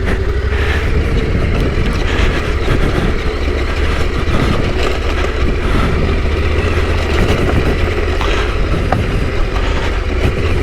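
Yamaha Ténéré 700's parallel-twin engine running steadily while the bike is ridden along a trail.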